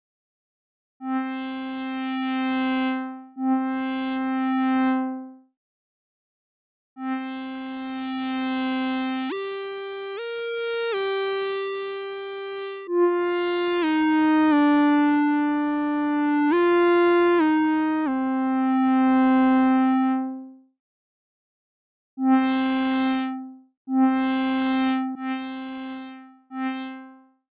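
Surge XT software synthesizer playing a bright, harmonic-rich patch: two held notes, then a slow phrase of stepping pitches rising and falling, then a few shorter repeated notes, with silent gaps between groups.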